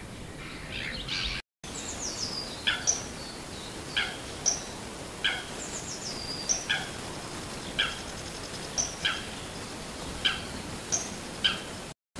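Wild birds calling. One bird repeats a short, sharp call about once a second, and another gives high, falling trills twice. A harsher call comes before a brief break in the sound about a second and a half in.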